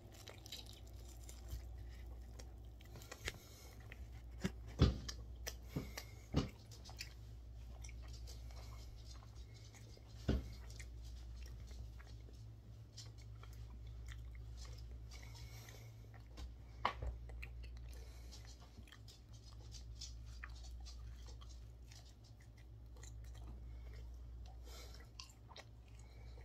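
A person chewing and biting barbecue pork ribs up close, with wet mouth sounds and a few sharp clicks, the loudest a little under 5, 6, 10 and 17 seconds in, over a steady low hum.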